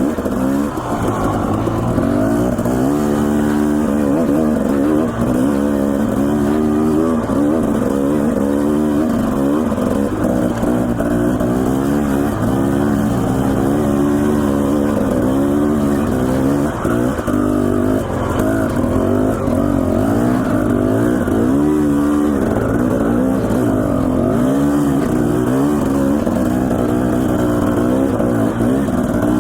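Dirt bike engine running under load on a trail climb, its pitch rising and falling over and over as the throttle opens and closes and the rider shifts.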